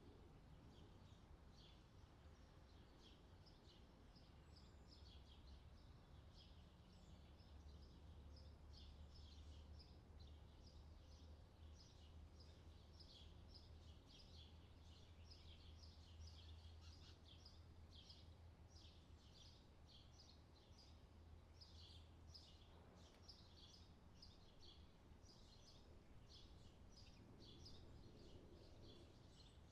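Faint outdoor summer ambience: small birds chirping continuously in quick short notes over a steady low rumble.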